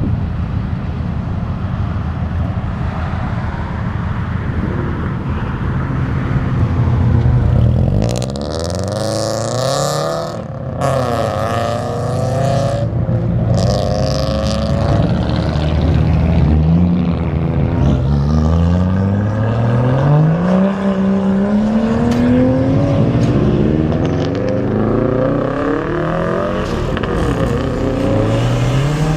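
Car engines: a steady low rumble, then from about eight seconds in, cars accelerating away one after another, their engine pitch rising again and again as they rev up.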